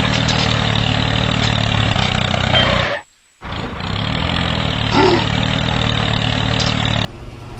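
A tractor engine running steadily. It cuts out abruptly about three seconds in, comes back half a second later, and stops sharply near the end.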